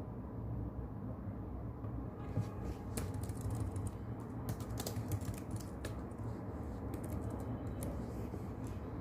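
Typing on a keyboard, a fast run of key clicks starting about two seconds in and running almost to the end. Under it, steady brown noise.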